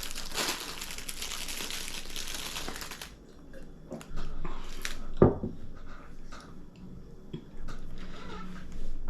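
Snack wrapper crinkling as it is unwrapped, for about three seconds. Then scattered small clicks and rustles, with one sharp thump about five seconds in.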